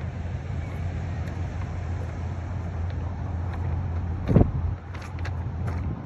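Steady low rumble of a running vehicle, with one loud thump about four seconds in and a few light clicks near the end.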